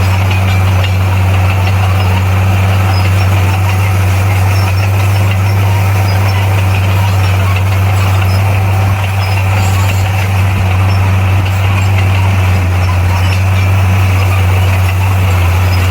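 Heavy earthmoving machine's diesel engine running steadily at an even, unchanging low pitch.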